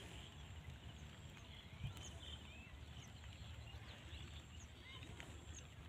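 Faint outdoor field ambience with scattered short, high chirps of small birds, and one soft low thump nearly two seconds in.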